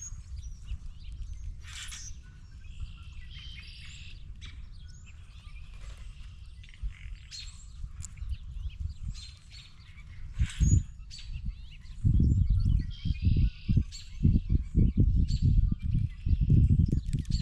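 Birds chirping, with loud rapid low knocks and rustling close to the camera starting about two-thirds of the way in.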